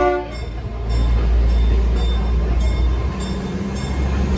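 Narrow-gauge railroad passenger coach rolling along, heard from inside the open-sided car: a steady low rumble of the wheels on the rails with faint clicks. A short whistle-like tone cuts off in the first moment.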